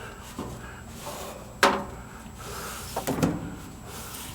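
Several hard knocks and clunks of parts being handled and set in place, the sharpest about a second and a half in and a short cluster around three seconds.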